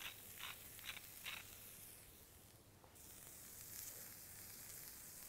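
Chopped broccoli and onion frying faintly in a pan, a low sizzle, with four quick shakes of a salt shaker over the pan in the first second and a half.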